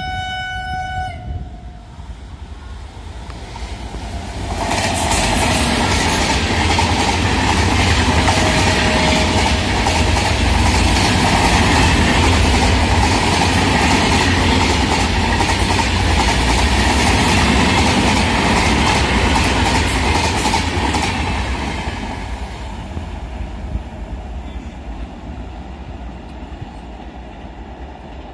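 Passenger train horn ending about a second in. A passenger train then rushes past at speed from about four seconds in: a loud, steady rumble of wheels and coaches with rail clatter, fading away after about twenty seconds.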